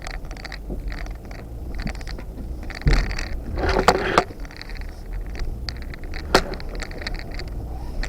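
Four-wheel-drive vehicle crawling over a rocky off-road trail: a low engine rumble under constant rattling and clanking as it jolts over rocks, with a louder crunching scrape about three seconds in and a sharp knock a few seconds later.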